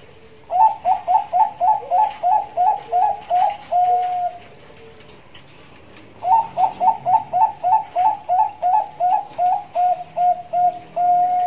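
Zebra dove (Bangkok perkutut) singing its cooing song twice: each phrase is a quick run of about a dozen short, clipped coos, roughly three to four a second, ending in a longer held coo. The second phrase begins about six seconds in.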